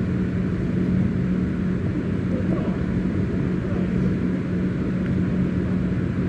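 Steady low rumbling noise with a constant low hum underneath, an outdoor field recording of the pitch.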